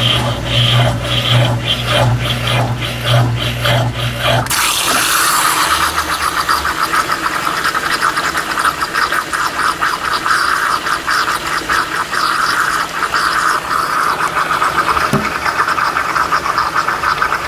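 Brastemp BWT12 top-load washing machine: a low motor hum for about four seconds cuts off, and water then rushes steadily into the tub as it fills for the rinse.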